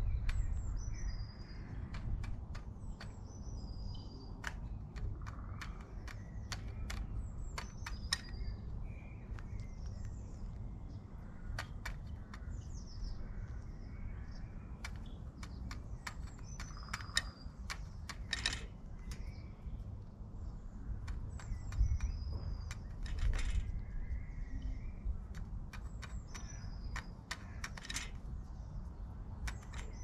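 Small birds chirping in short, high, falling notes, repeated every few seconds, with frequent sharp clicks and taps and a steady low rumble underneath.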